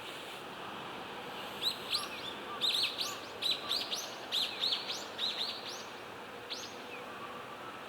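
Common kingfisher calling: a quick run of high, sharp, piercing chirps lasting about four seconds, then one more a second later, over a steady background hiss.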